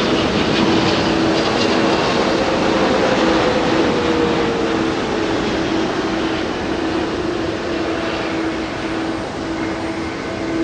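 Jet airliner engines running loud and close, a steady rushing noise with a held whine and a second tone that slowly falls over the first five seconds.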